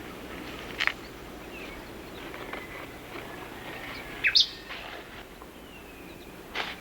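Rain forest ambience: a steady low hiss with scattered short bird calls and faint whistles. The loudest is a pair of sharp chirps about four seconds in, with single chirps near the start and near the end.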